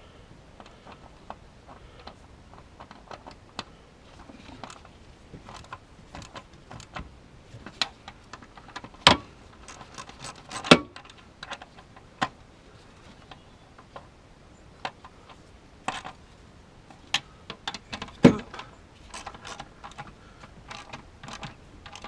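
Irregular metallic clicks and clinks of hand tools working on engine fasteners as bolts are snugged up, with three much louder sharp metal knocks spread through.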